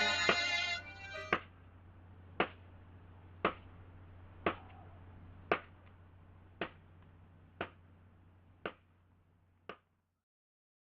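Music ends about a second in, followed by nine sharp ticks about a second apart over a low hum. Everything cuts off near the end.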